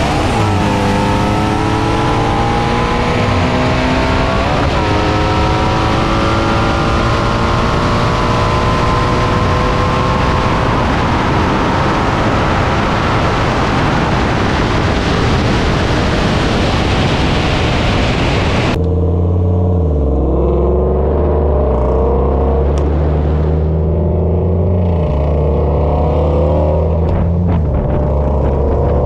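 BMW 340i's turbocharged straight-six with a downpipe, and the Shelby GT350's V8 alongside, at full throttle in a roll race. The engine note climbs in pitch and breaks at each upshift, and wind noise builds until it drowns the engines at about 140 mph. About two-thirds through, the sound turns abruptly lower and muffled, and the engine steps down in pitch as the car slows.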